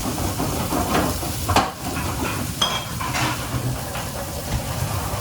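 Restaurant kitchen at work: metal pans and utensils clink and knock a few times, one with a short metallic ring, over a steady hiss of frying.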